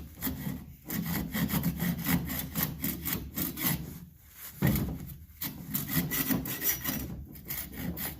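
A saw cutting through a wooden hatchet handle to take it off the head, in quick back-and-forth strokes with a couple of short pauses.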